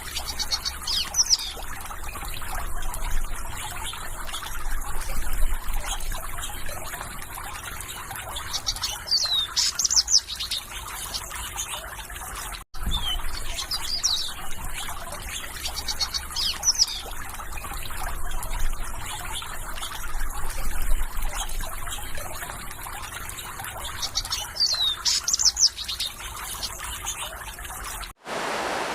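Water trickling with small birds chirping in short, quick calls every second or two over it. The sound cuts out for an instant about halfway and again near the end, after which a steadier rushing of water takes over.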